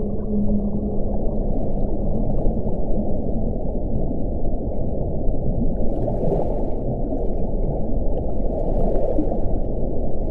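Wind blowing in a steady low rush, with a faint howling tone fading out in the first second or two. Two stronger gusts swell about six and nine seconds in, adding a higher hiss.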